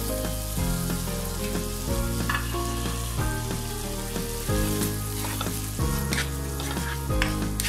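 Prawns and onion masala sizzling in a frying pan while a spatula stirs them. Under it runs background music with held low notes that change about once a second.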